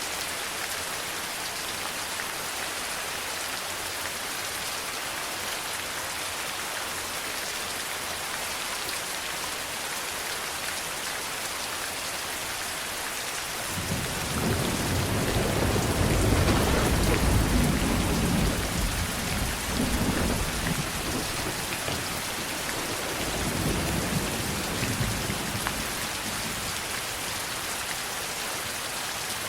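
Steady heavy rain falling, with a long roll of thunder that breaks in about halfway through, rumbles loudest for a few seconds, swells once more and fades back into the rain.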